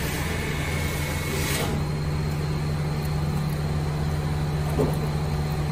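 Car engine idling steadily, a low even hum, with a hiss that stops about two seconds in.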